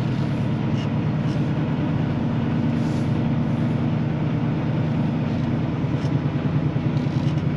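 Semi-truck's diesel engine running steadily at low revs while the rig is manoeuvred to drop a trailer.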